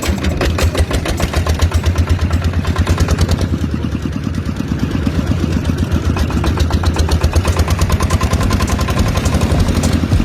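Small single-cylinder engine of a miniature diesel water pump running steadily, with a rapid, even firing beat.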